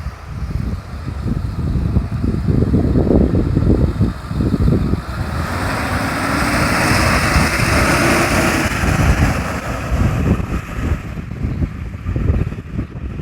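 Pickup truck engine running steadily, under heavy wind buffeting on the microphone; a louder rushing hiss swells in the middle for about three seconds.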